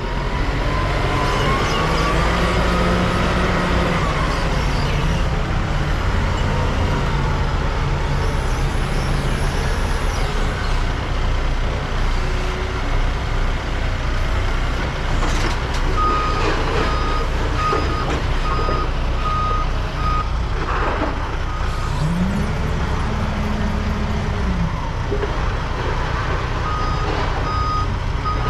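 A heavy vehicle's engine running and revving up now and then, with its reversing alarm beeping in a steady series about halfway through and again near the end.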